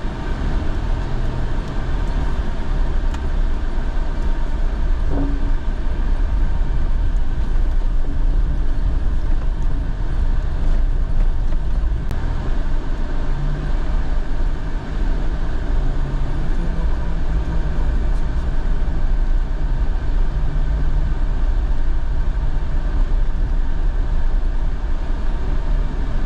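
Steady road noise of a car being driven, an even low rumble with no break.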